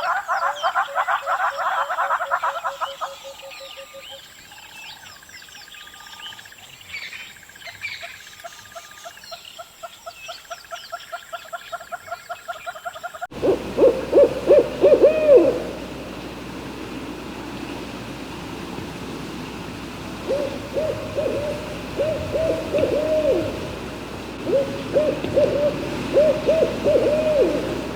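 A chorus of rapidly repeated animal calls that thins out to scattered chirps and trills. After an abrupt cut about halfway through, an owl hoots in short runs of several hoots, repeated a number of times.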